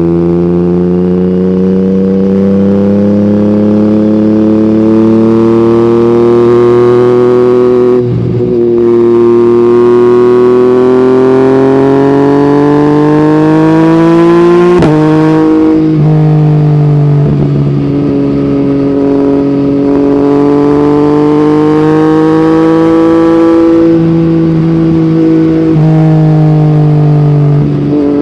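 Yamaha MT-09 crossplane three-cylinder engine through an Akrapovic exhaust, riding under load. Its note climbs steadily, breaks briefly about eight seconds in, and climbs again. It drops sharply about halfway through, then holds a fairly steady note that rises and falls slightly.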